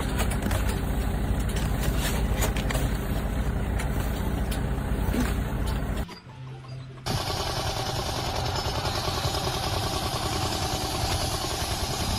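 An engine-driven machine running. About six seconds in it cuts out, and after a short lull a different, brighter steady noise takes over.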